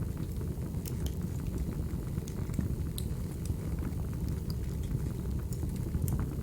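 Crackling wood fire ambience: a steady low rumble of flames with scattered sharp pops and snaps of burning firewood.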